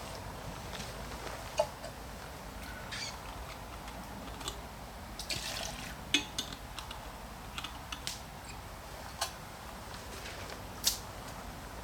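Campfire crackling, with irregular sharp pops and snaps over a low steady hiss; the loudest pops come about one, six and eleven seconds in.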